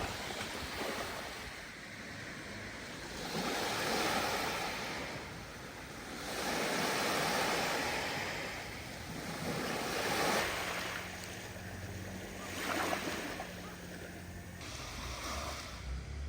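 Sea waves washing in and drawing back, surging roughly every three seconds. A faint steady hum joins for a few seconds past the middle.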